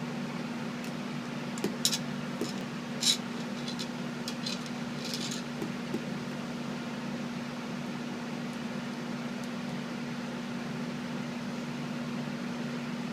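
A steady low mechanical hum, like a fan or air-conditioning unit running, with a few light clicks and taps in the first five seconds or so.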